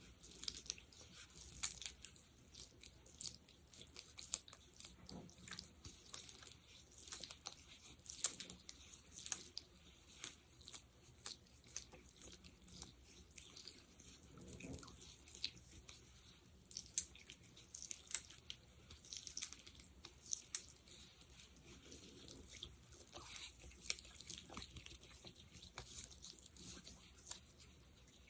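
Close-miked sticky, crackling sounds of fingers working a sticky gel, many small irregular clicks and pops.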